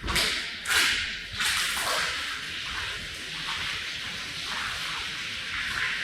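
Water spraying onto a rug: three quick swishing passes, then a steady hiss of spray.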